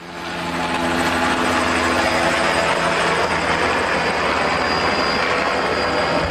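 A loud steady engine drone over a wash of noise, cutting in suddenly at the start.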